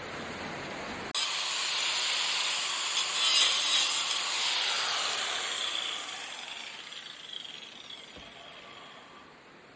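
Angle grinder cutting pieces from a metal spoon: it starts abruptly about a second in with a loud hiss of cutting, then winds down and fades away over the last few seconds.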